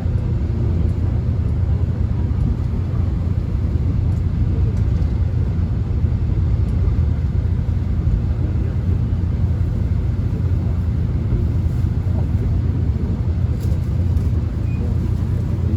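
Steady low rumble inside a Korean subway car as the train runs, with an even hiss of track and air noise above it.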